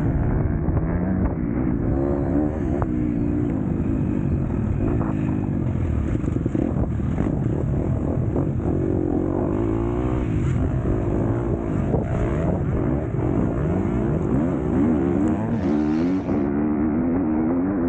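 Motocross bike engine revving hard and rising and falling in pitch every second or so, as the throttle is opened and shut through the corners and jumps of a race.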